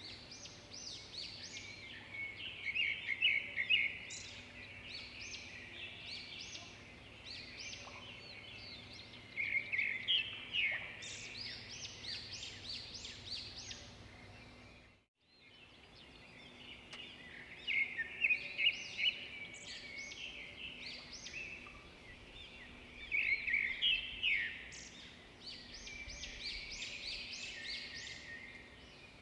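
Chorus of many small songbirds chirping and trilling in quick high notes. The sound cuts out for a moment about halfway, then fades back in.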